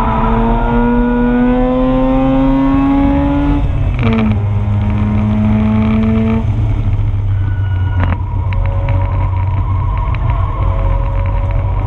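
Onboard sound of a 2004 Mazda RX-8's two-rotor rotary engine at full throttle, its pitch climbing and then dropping sharply on an upshift about four seconds in. After the shift it pulls steadily, then lifts off a couple of seconds later. From there a lower engine drone runs with scattered ticks and rattles from the loose GoPro mount.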